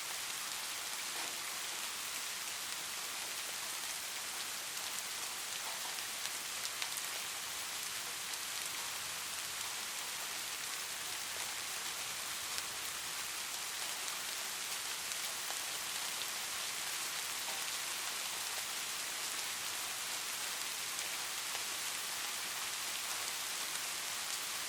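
Light rain falling steadily: an even hiss with scattered small drop ticks.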